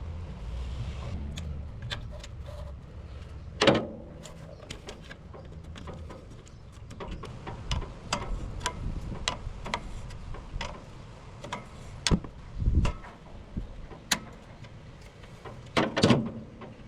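Irregular clicks and knocks, with louder clunks about four seconds in, twice around twelve to thirteen seconds, and again near the end. A low rumble runs underneath in the first couple of seconds.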